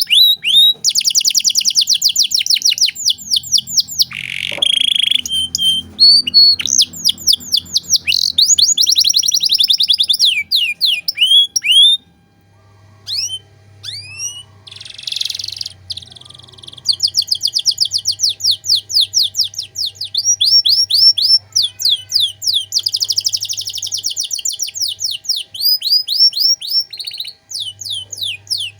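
Domestic canary singing a fast, varied song: long rapid trills of repeated high, downward-sweeping notes. The song thins to scattered single notes for a few seconds past the middle, then the trills resume.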